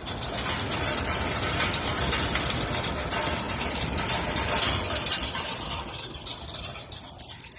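Loud racket from a building's upper HVAC vent heard up close: a steady, vibrating mechanical noise that sounds pretty bad and probably should be addressed. It fades near the end.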